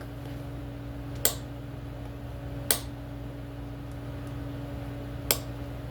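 Three sharp clicks, spaced a second or more apart, from the choke lever of a two-stroke dirt bike being worked, which is stuck always open. A steady low hum runs underneath.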